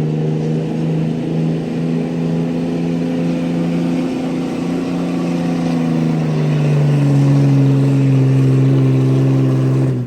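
Pulling truck's engine running at high, steady revs under load down the track, its pitch sagging a little about two-thirds of the way through, then cut off abruptly.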